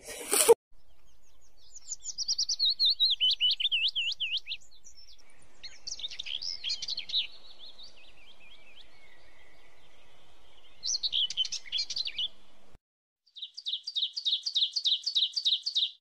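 A brief loud noise right at the start, then birds singing: warbling phrases that slide up and down in pitch, and near the end a fast run of about ten evenly repeated notes.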